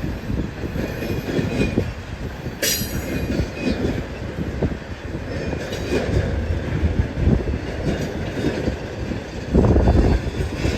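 BNSF freight train rolling past, its cars and wheels rumbling unevenly with wind buffeting the microphone. A brief high wheel squeal cuts in about two and a half seconds in, and a heavy low gust hits near the end.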